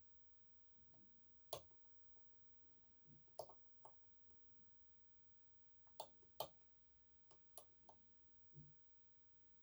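Lock pick working inside an EVVA 3KS high-security lock, making faint, irregular metallic clicks as it moves the lock's sliders under tension, some clicks coming in quick pairs.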